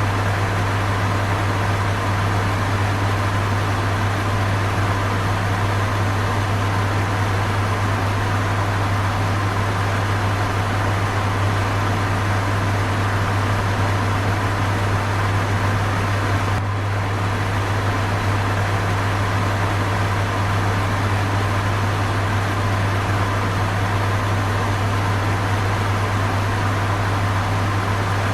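Electric fan running steadily: a low, constant motor hum under an even rushing hiss of moving air.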